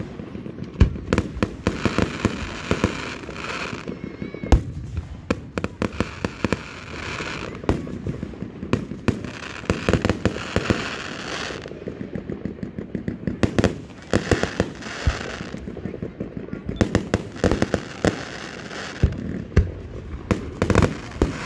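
Fireworks display going off in a rapid, irregular barrage: many sharp bangs, several a second, with recurring stretches of hiss between them.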